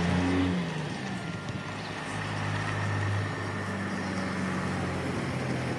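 A motor vehicle engine running with a steady low hum, its pitch shifting slightly and its level swelling a little about three seconds in.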